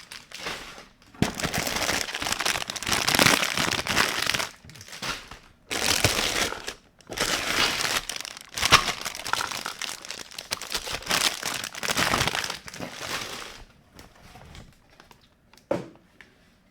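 Crinkling packaging being handled and pulled open during unboxing, in several long stretches. It dies down near the end to a few light clicks and taps.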